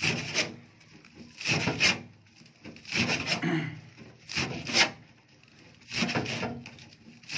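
A blade cutting through bunches of green fodder (berseem clover stalks): rasping strokes about every one and a half seconds, each with a double peak.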